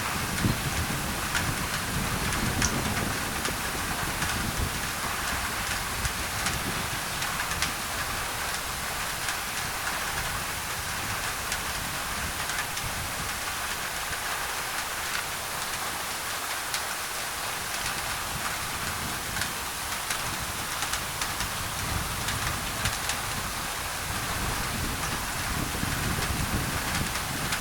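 Rain falling on a thin tin roof, mixed with white noise: a steady hiss full of small drop ticks. A low rumble swells near the start and again near the end.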